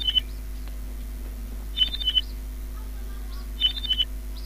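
A small bird calling: a short cluster of high chirps three times, about two seconds apart, over a steady low electrical hum.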